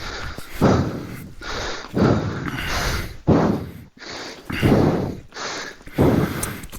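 A person breathing hard close to the microphone, a sharp, noisy exhalation about every second and a bit, six times in a row, like panting after exertion.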